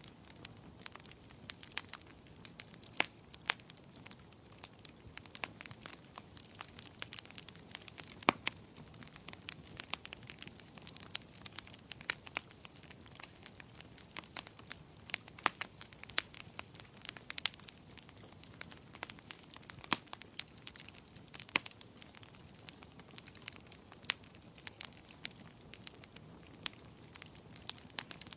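Wood fire crackling in a fireplace: frequent sharp, irregular pops and snaps over a soft steady hiss of burning.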